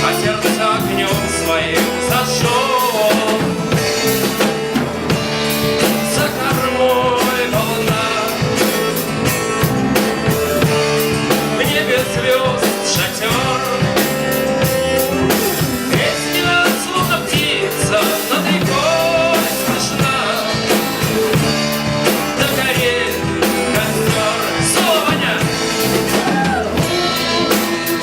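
Rock music: an instrumental passage with drums and a wavering, bending lead line over sustained guitar.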